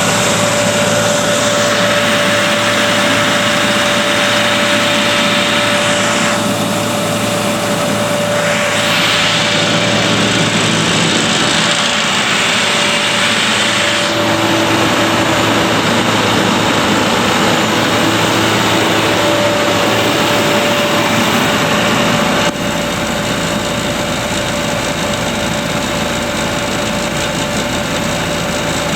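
Kaeser M114 portable diesel rotary-screw air compressor running steadily, with a constant tone and a hiss that grows and fades. About three-quarters of the way through, the sound drops a little and stays lower.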